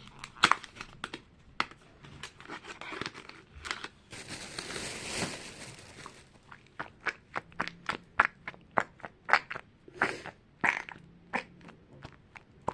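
Packaging of a fidget toy being opened and handled: a string of sharp crinkles and clicks, with a longer rustle about four to six seconds in.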